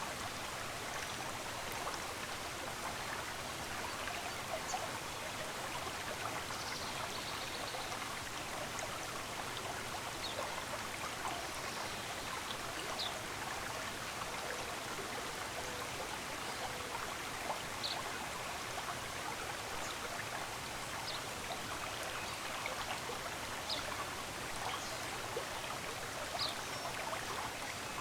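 A stream running steadily, a continuous even rush of flowing water. A few brief, faint high chirps stand out now and then.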